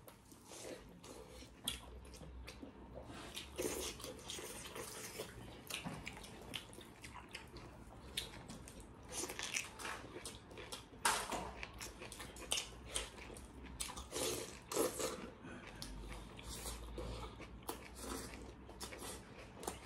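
Two people eating pork curry and rice by hand: irregular, wet chewing and mouth smacks in a continual run of short clicks.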